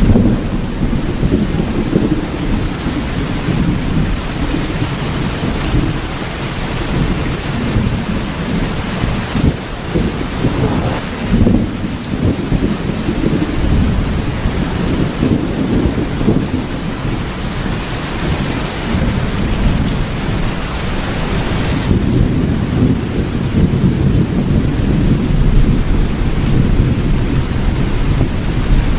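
Steady rain with a continuous low, rolling rumble of thunder under the hiss of the rain. Near two-thirds of the way through, the higher hiss of the rain dims a little.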